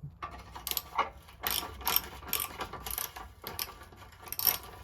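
Hand ratchet clicking through repeated short strokes while a rusted bolt is being undone.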